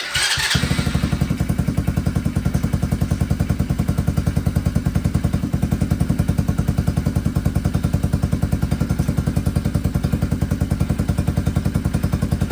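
Small single-cylinder 110cc four-stroke go-kart engine running at a steady idle, with an even pulsing beat.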